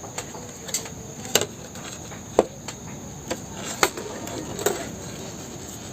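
Irregular sharp clicks and light knocks of a cracked plastic motorcycle fairing being handled and pressed into position, about eight in all, over a steady high hiss.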